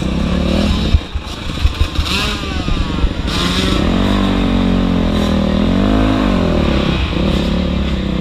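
Motocross dirt bike engine running, with several sharp knocks about a second in, then the revs rising and falling twice.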